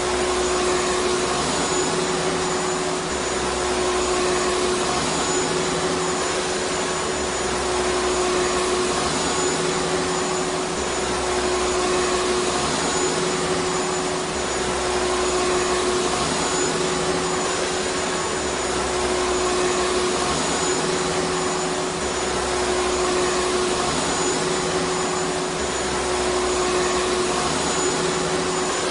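Vacuum cleaner motor running continuously: a steady rushing whir with a constant hum, and a low rumble that swells and fades about every four seconds.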